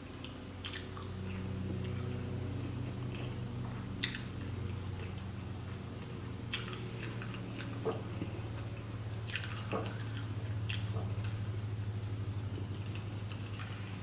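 Close-miked chewing and wet mouth smacks of someone eating fried shrimp and wings, with a few sharp smacks, over a steady low hum.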